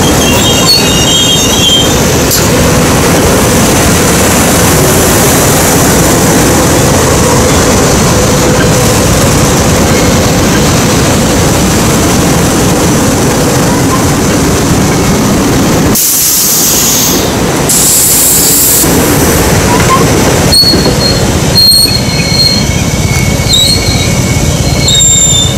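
SEPTA electric multiple-unit commuter train running past close by: a steady, loud rumble of steel wheels on rail, with short high-pitched wheel squeals near the start and again in the last few seconds. Two short bursts of high hiss come about two-thirds of the way through.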